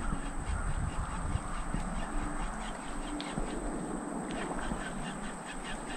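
Birds calling: a run of short, repeated calls.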